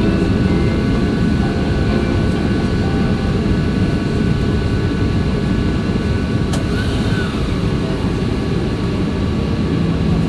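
Steady rumble of a Boeing 737-800's CFM56 jet engines and airflow heard inside the passenger cabin, with faint steady tones above the low roar and no change in pitch.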